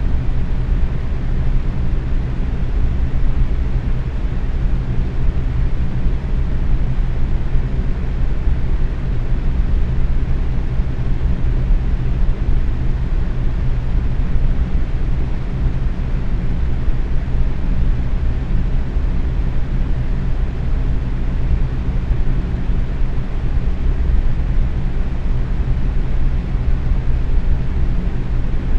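Box fan running steadily at medium speed: an even, low whooshing rush of moving air with a faint steady hum from the motor underneath.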